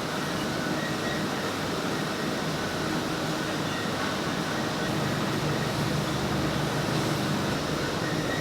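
Button-polishing machinery running steadily in a factory: a continuous rumbling, hissing noise, with a low hum coming in about halfway through.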